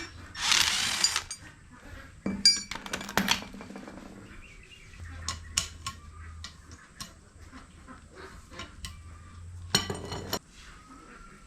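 Metal tools and engine parts clinking and knocking in irregular clusters, with a short hiss near the start.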